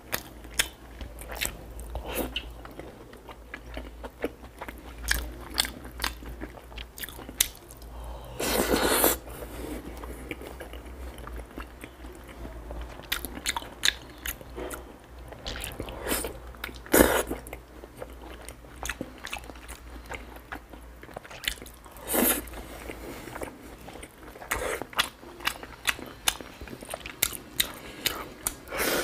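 A person biting and chewing soft, sticky red-braised pork belly with rice: wet mouth clicks and smacks in a quick, uneven stream, with a few louder, longer mouth sounds, the biggest a little before the middle.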